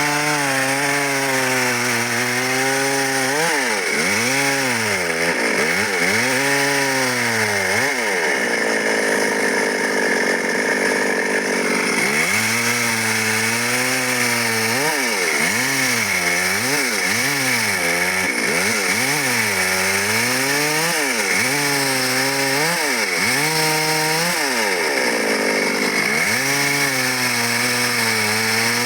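Stihl MS 382 two-stroke chainsaw cutting dry wood at full throttle. Its pitch keeps dropping and climbing again as the chain bites into the wood and clears, with a stretch of steady high revs about a third of the way in.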